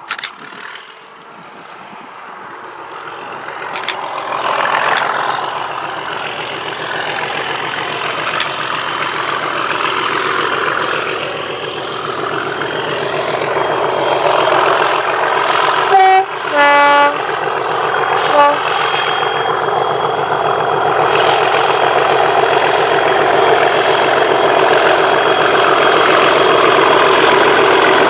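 Class 37 diesel locomotive's English Electric V12 engine working hard and growing steadily louder as it approaches. About halfway through it sounds its two-tone horn: a short high note, a longer low note, then a brief low blip.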